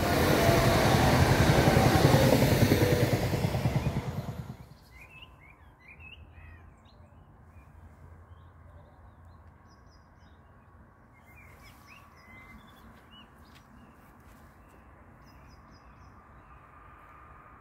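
EN78A electric multiple unit passing close by at speed, a loud rush of wheel and rail noise that cuts off about four and a half seconds in. After that, small birds chirp now and then over a faint background hum.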